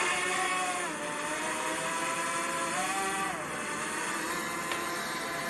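Quadcopter drone's propellers whining, the pitch dropping about a second in, then rising and falling again around the three-second mark as the motors change speed.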